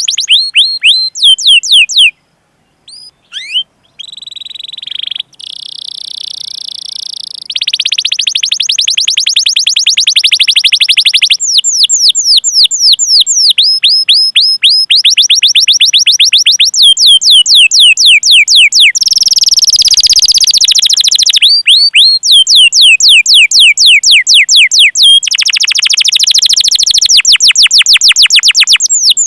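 Canary singing at full volume: long runs of quick downward-sweeping 'cuit cuit' chirps alternating with fast rolling trills, with a brief break about two seconds in.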